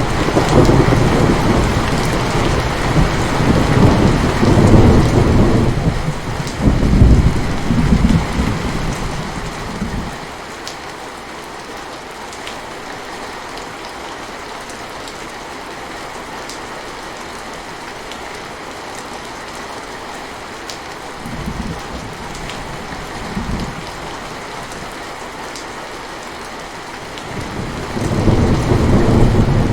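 Steady rain with rolling thunder. A long rumble runs through the first ten seconds, two short low rumbles come around the middle, and another rumble builds near the end.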